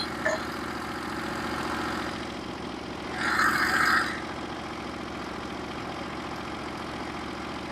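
Norwood HD36v2 portable bandsaw mill running steadily, its engine driving the band blade through a log, with a louder rushing noise for about a second, around three seconds in.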